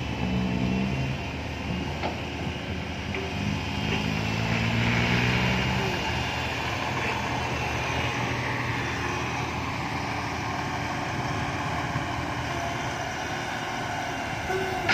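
Six-wheel dump truck's engine running steadily as the truck drives, swelling a little about four to six seconds in.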